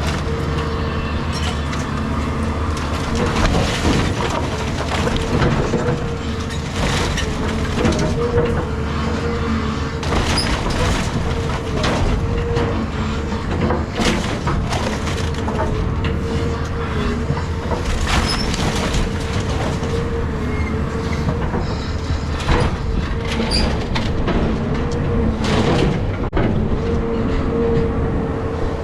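Caterpillar 323 excavator running steadily with a constant whine, over repeated cracking, splintering and crashing of wood and debris as the house structure is broken apart.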